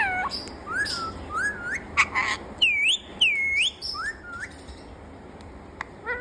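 Pet parrot whistling: a string of short up-and-down whistled notes, with two longer swooping whistles around the middle and a couple of sharp clicks.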